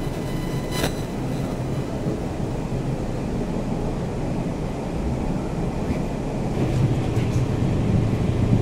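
Passenger train of Taiwan Railway's Round-the-Island Star running along the line: a steady low rumble with rolling rail noise. There is a brief click a little under a second in, and it gets slightly louder near the end.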